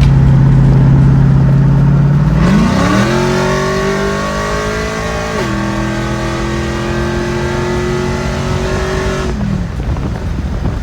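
LS V8 in a drag truck, breathing through long-tube headers and a 3-inch exhaust, accelerating hard. It holds a steady pitch for about two seconds, climbs, drops once at an upshift about five and a half seconds in, climbs again and falls away near the end.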